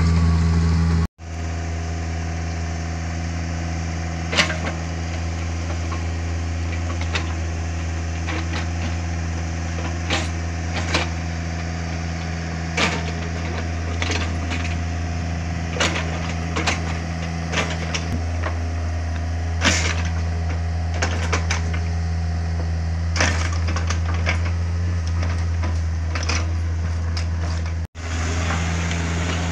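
Takeuchi TB150 mini excavator's diesel engine running steadily, with scattered sharp cracks and knocks as material is worked. The sound drops out completely for a moment twice, about a second in and near the end.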